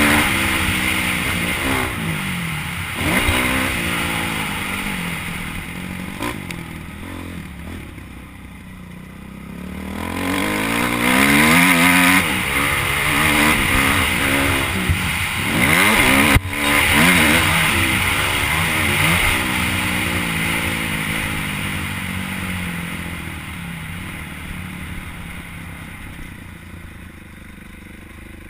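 Motocross bike engine revving up and down again and again as the throttle is opened and closed, with a lull about eight to ten seconds in. A sharp knock sounds about sixteen seconds in, and then the engine gradually eases off.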